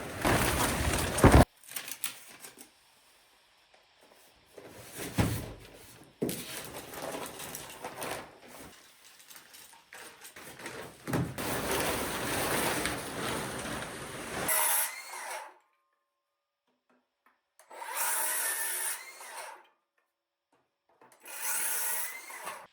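A string of short, cut-together bursts of building work: wood being handled and power-tool noise, separated by sudden silences.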